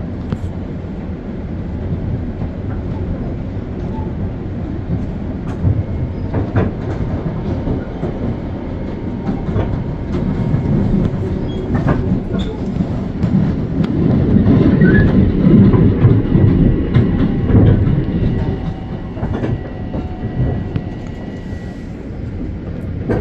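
Long Island Rail Road train passing on the main line: a steady low rumble of wheels on rail with scattered clacks over the rail joints, growing loudest about two-thirds of the way through and easing off near the end.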